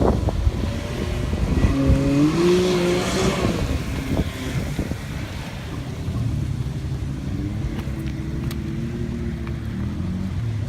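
Off-road vehicle engine revving, its pitch climbing and falling over the first few seconds, then running at a steadier, lower throttle.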